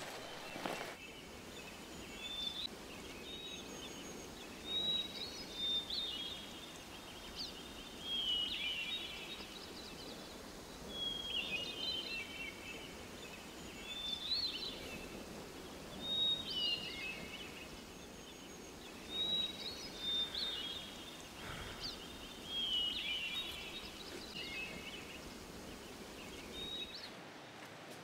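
A songbird singing a short chirping phrase about every three seconds over a steady hush of forest background.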